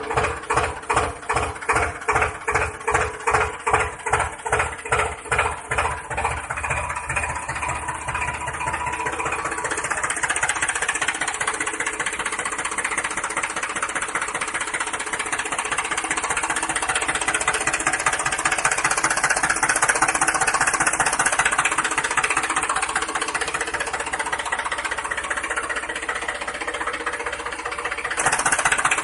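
An engine chugging in separate beats that quicken over the first several seconds and blend into a steady running sound.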